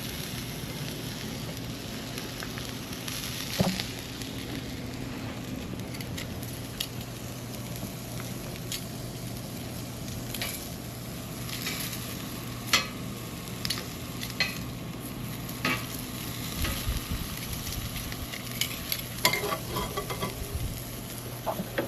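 Portable fire-pit grill sizzling steadily, with scattered sharp pops and clicks that come more often in the second half.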